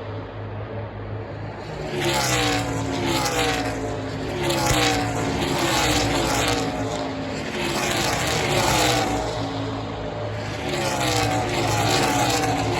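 NASCAR Xfinity stock cars racing past in a string of passes. Each pass's V8 engine note falls in pitch as the cars go by, over a steady low rumble.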